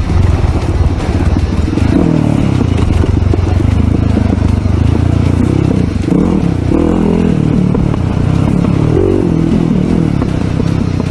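Enduro dirt bike engine revving loudly under load, its pitch rising and falling again and again as the throttle is worked.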